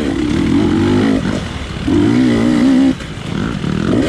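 GasGas dirt bike engine revving under throttle: held high for about a second, eased off, then opened up again for another second before the revs drop near three seconds in.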